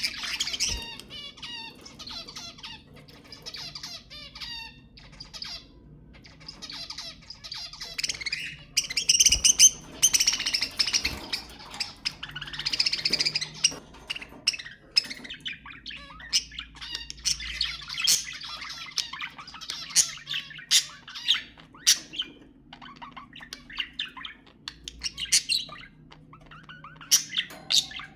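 A flock of budgerigars chattering, warbling and squawking, with many short sharp chirps and a louder run of squawks near the middle.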